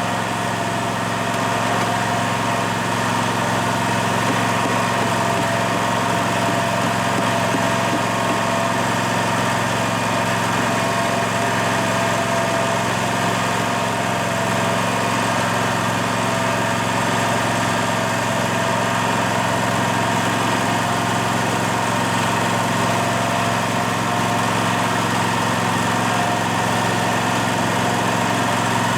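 An engine running at a steady speed without revving, with a constant drone and a fixed whine above it.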